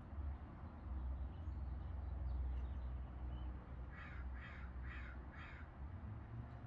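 Four short bird calls in a row, about half a second apart, a little past the middle, over a steady low rumble.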